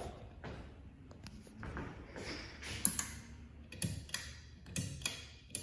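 Quiet room with a handful of short, sharp clicks and taps, spaced irregularly through the second half.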